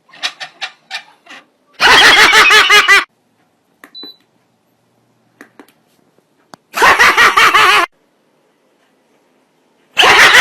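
High-pitched laughter in three loud bursts of rapid 'ha-ha' pulses, with short quieter snickers in the first second or so.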